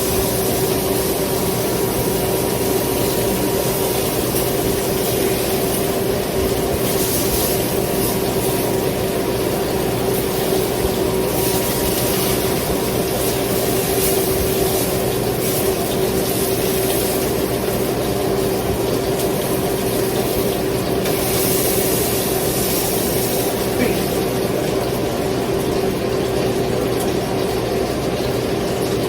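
Steady whir of a kitchen appliance fan motor, with a constant hum and a few brief rises of hiss.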